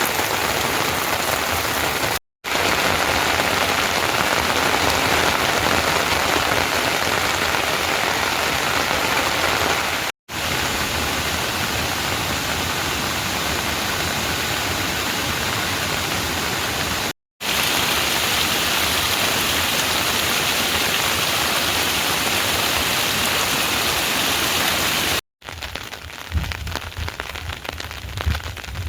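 Steady heavy rain falling on surfaces, a dense even hiss broken by four very short silent gaps. In the last few seconds the rain is quieter, with a few separate drips or knocks.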